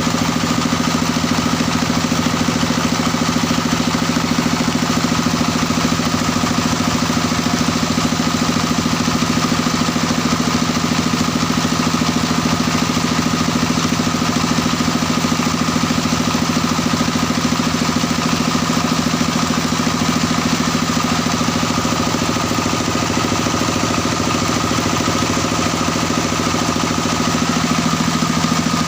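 Engine of a mini well-drilling rig running steadily at constant speed.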